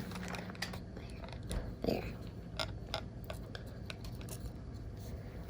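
Faint, scattered small clicks and light rustling from hands handling a homemade cardboard-roll kaleidoscope, with one softly spoken word about two seconds in.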